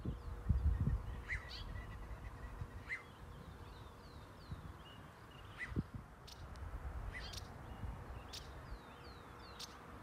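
Birds calling outdoors in scattered short high notes and small chirps, over an uneven low rumbling noise.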